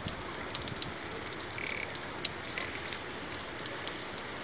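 Steady rain falling, with a dense patter of individual drops ticking on nearby surfaces.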